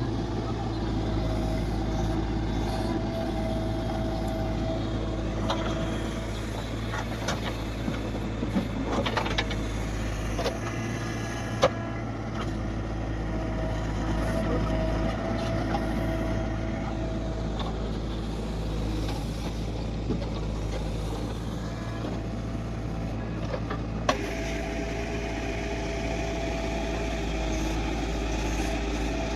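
Heavy diesel engine machinery, a JCB backhoe loader working soil beside a tractor, running steadily. A higher whine rises in and fades out several times, with a few sharp knocks, the loudest about twelve seconds in.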